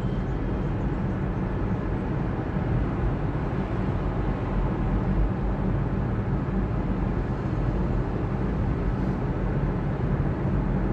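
Steady low rumble of a car on the move: engine and tyre-on-road noise with no distinct events.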